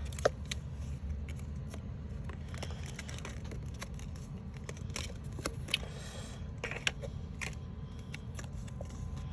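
Scattered light clicks and rustles of paper model pieces being handled, over a steady low hum.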